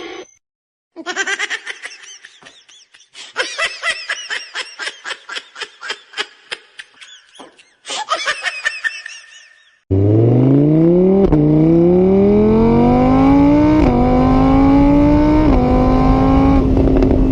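A quick run of high, pulsing, laughter-like vocal sounds that waver in pitch. About ten seconds in it gives way to a loud engine accelerating, rising in pitch and stepping back down about four times as it shifts up through the gears.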